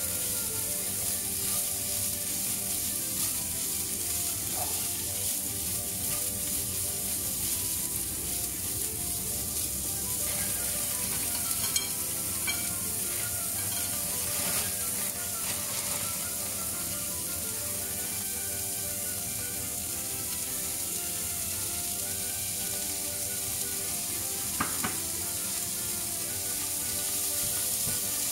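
Sliced sausage and onion sizzling steadily in a hot non-stick frying pan as they are stir-fried, with a few sharp clicks of the spatula against the pan.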